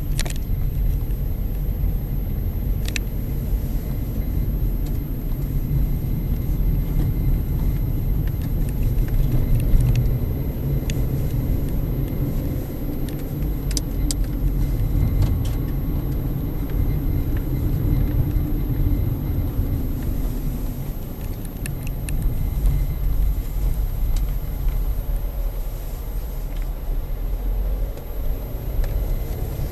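Steady low rumble of a car driving, engine and tyre noise heard from inside the car, with a few small clicks and rattles.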